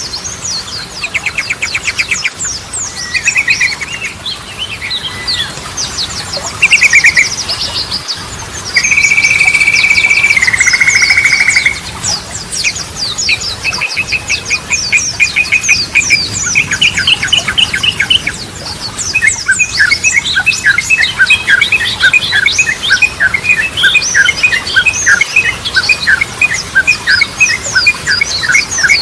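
Yellow-vented bulbul (trucukan) singing a long, varied run of chattering trills, held whistled notes and fast repeated phrases, with higher chirps laid over them.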